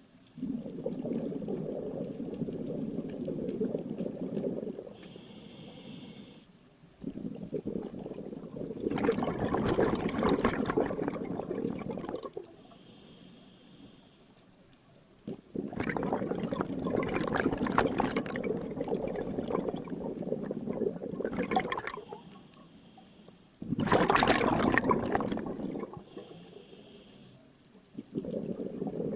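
Scuba diver breathing through a regulator underwater. About five long, loud rushes of exhaled bubbles alternate with short, quieter hisses of inhalation.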